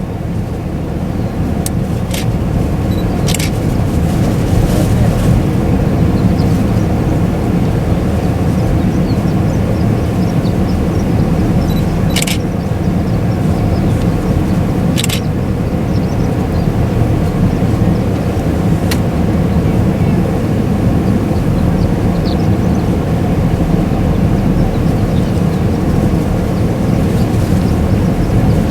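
Steady low road and engine rumble inside a moving vehicle's cabin, with a few short clicks scattered through it.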